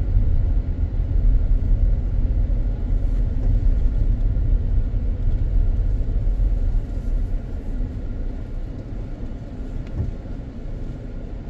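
Car road and engine noise heard from inside the cabin: a steady low rumble that eases off a little about seven seconds in.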